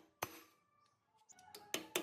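Hammer blows on metal, each a sharp strike with a brief metallic ring: one strong blow just after the start, a short lull, then a quicker run of blows near the end.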